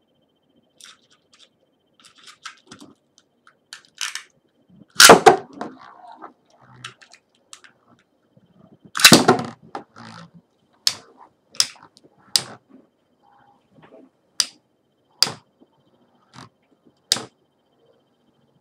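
Beyblade spinning tops battling: two loud scraping bursts about five and nine seconds in, then a run of sharp clicks about once a second as the tops strike each other.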